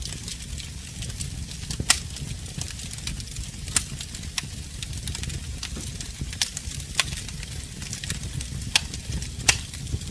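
Fire burning in a fireplace, crackling: a steady low rumble and hiss with sharp pops every second or so, the loudest about two seconds in.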